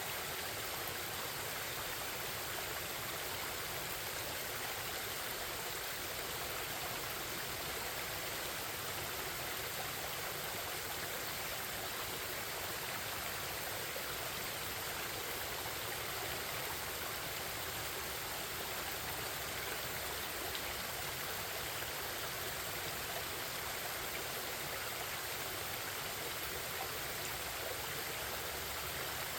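Forest stream babbling, a steady, unbroken rush of flowing water.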